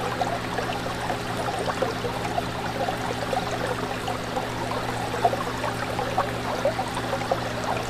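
Fish tank water bubbling and trickling continuously, with many small bubble pops, over a steady low hum from the tank's pump.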